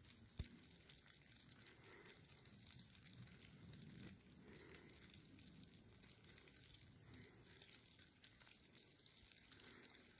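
Near silence, with faint crackling and a few soft clicks.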